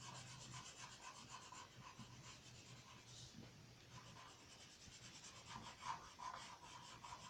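Faint rubbing of a colouring tip being stroked back and forth over a sheet of shrink plastic while colouring in, slightly louder about six seconds in.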